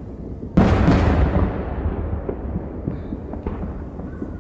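Aerial fireworks shell bursting with a loud boom about half a second in, its rumble echoing and fading over a couple of seconds, followed by a few smaller pops.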